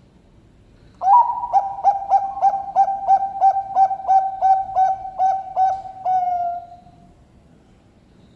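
Bangkok-strain zebra dove (perkutut) cooing. About a second in it gives a rapid run of about fifteen short, clipped coos at roughly three a second, then ends on one longer drawn-out note that slides slightly lower.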